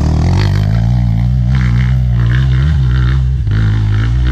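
Single-cylinder four-stroke trail motorcycle engine running at low, fairly steady revs, with small rises in pitch.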